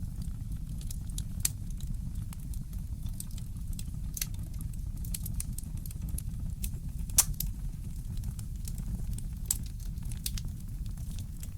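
Wood fire crackling in a fireplace: scattered sharp pops and snaps, the loudest about seven seconds in, over a steady low rumble.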